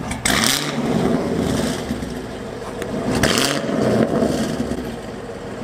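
Chevrolet Camaro's 6.2 L LT1 V8 being blipped several times, the pitch climbing and falling back to idle each time, through its stock exhaust manifolds and quad-tip exhaust.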